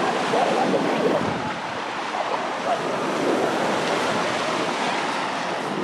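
Sea waves washing onto a beach in a steady rush, with wind buffeting the microphone.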